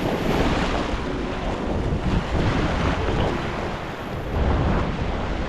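Wind buffeting the microphone, with the wash of ocean waves underneath.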